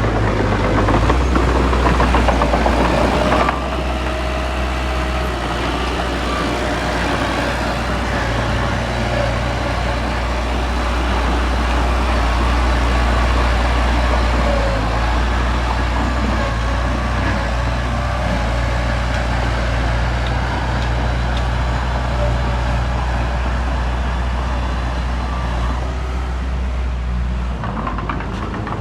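Heavy diesel earthmoving machinery engine running steadily with a deep, constant drone. It drops slightly in level about three and a half seconds in.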